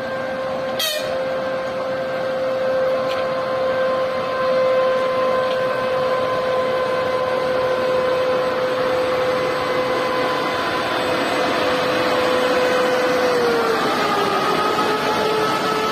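EP2K passenger electric locomotive running, giving a steady electric hum with several held tones over a machinery noise bed. There is a short sharp sound about a second in, and near the end the main tone steps down slightly in pitch.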